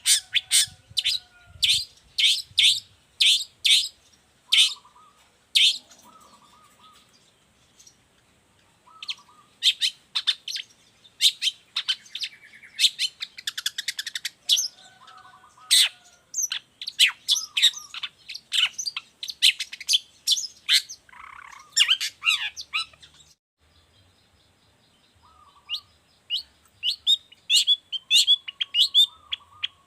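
Long-tailed shrike (cendet) singing in full voice: rapid runs of sharp, high chirps mixed with a few lower warbled notes. The song breaks off briefly about a fifth of the way in and again past two-thirds.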